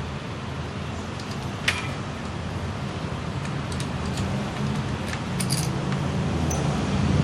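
Datsun GO+ three-cylinder engine idling steadily, growing louder toward the end, with a few light metallic clicks and taps over it.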